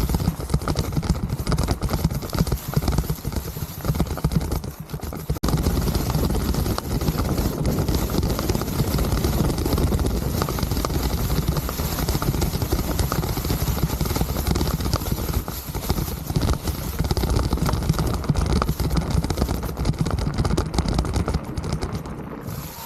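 Mountain bike riding over rough trail: steady wind buffeting on the microphone mixed with tyre rumble and fast irregular rattling from the bike, louder from about five seconds in.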